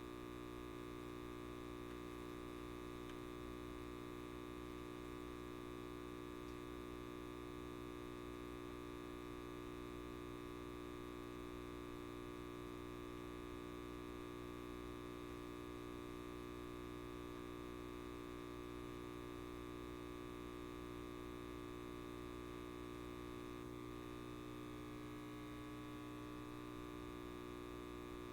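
Electric light bulb giving off a steady mains buzz, a stack of unchanging tones.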